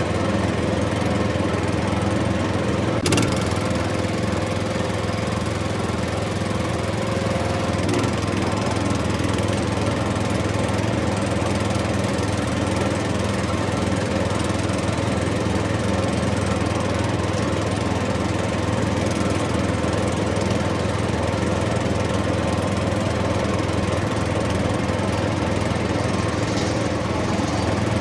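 An engine running steadily at an even pace, with one sharp click about three seconds in.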